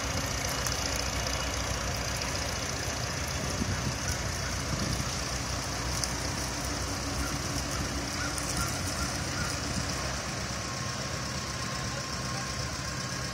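Antique tractor engine running steadily at idle, a low, even chugging.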